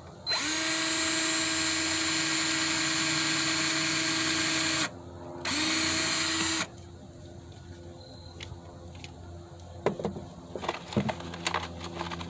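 Power drill driving a screw into wood: the motor spins up and runs steadily for about four and a half seconds, stops, then runs again for about a second to seat the screw. A few light knocks and clicks near the end.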